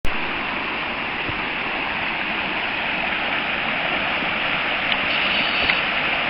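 Steady rush of flowing floodwater, an even, unbroken pouring sound.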